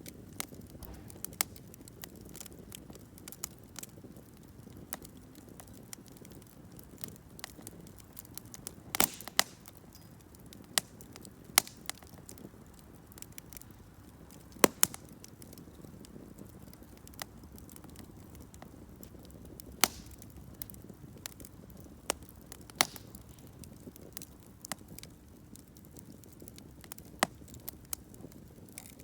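Wood campfire crackling: a soft steady rustle of flames with sharp, irregular pops and snaps from the burning wood, a quick cluster about a third of the way in and the loudest pop about halfway through.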